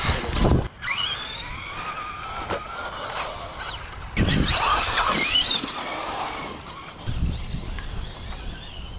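Electric RC cars' motors whining, the pitch gliding up and down as they speed up and slow down. There are bursts of low rumble in the first second, about four seconds in, and near the end.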